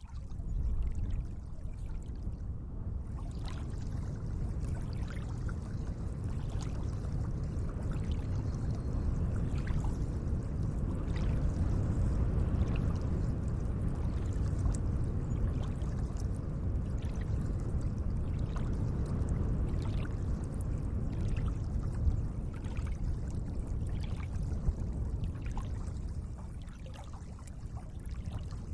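Gentle lake water lapping and sloshing: a steady low wash with many small splashes scattered through it.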